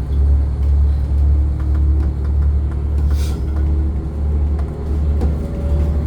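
Limited Express Hokuto diesel train heard from inside the passenger car while under way: a steady low rumble of engine and running gear, with a faint whine above it.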